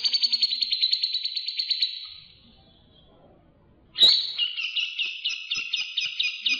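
A songbird giving two rapid chattering trills, each a fast run of repeated notes. The first fades out about two seconds in, and the second starts abruptly about four seconds in.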